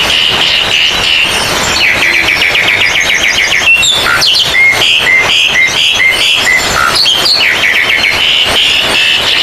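Oriental magpie-robins (kacer) and other caged songbirds singing at once in a loud, dense chorus of rapid repeated chirps and trills, the sound of a songbird contest.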